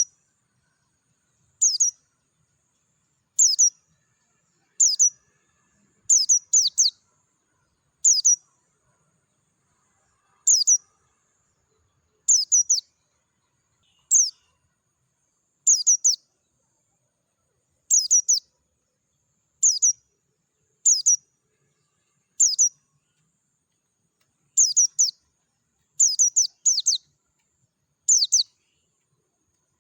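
A white-eye (pleci) calling with short, high, clear chirps that sweep downward. They come singly or in quick pairs, about every one and a half to two seconds.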